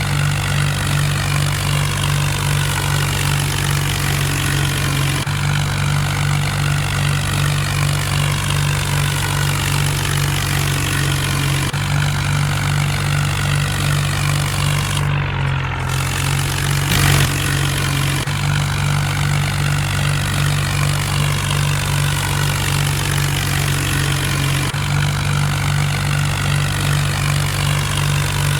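Mahindra Arjun tractor's diesel engine running steadily at a constant speed, with one short knock about two-thirds of the way through.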